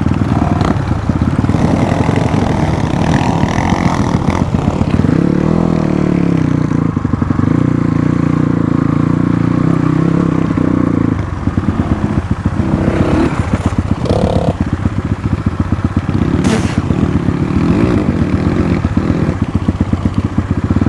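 Motorcycle engine running while the bike is ridden, its pitch rising and falling with the throttle, with some clatter from the machine.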